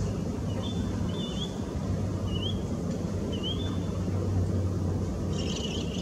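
A steady low drone with about four short, faint rising whistled bird calls over it in the first few seconds.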